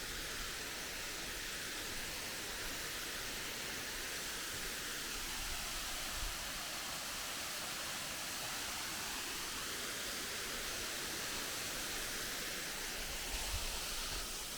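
Waterfall's steady rushing roar, an even hiss of falling water heard close to the falls.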